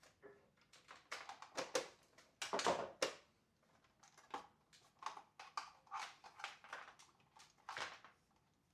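Irregular clicks, knocks and short scrapes of plastic housing parts being handled and pried apart while a Tineco floor washer is disassembled, with a louder scraping stretch about two and a half seconds in.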